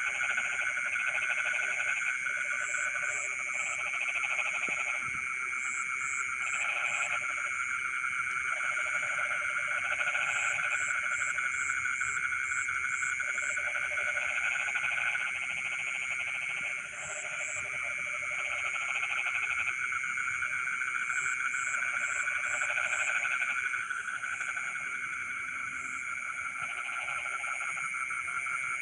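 Chorus of frogs calling in a rice field: a steady high trilling throughout, with lower pulsing croaks that start and stop every second or two and quick groups of short high chirps on top.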